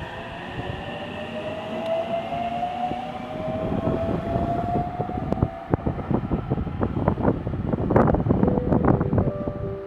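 Electric train running along the track: a motor whine rises slightly in pitch over the first few seconds, then dense clattering and knocking of wheels on the rails takes over.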